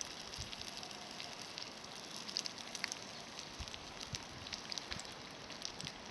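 Wood campfire crackling: a steady hiss with scattered sharp pops and snaps.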